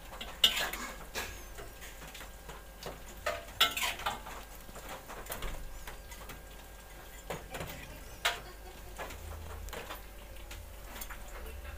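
Scattered light clicks and clinks of cutlery against dishes during a meal, with sharper taps about half a second, three and a half and eight seconds in.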